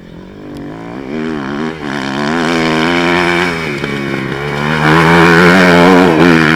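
Enduro dirt bike engine revving hard with repeated rises and dips in pitch as the throttle is worked, growing steadily louder as the bike approaches and loudest near the end.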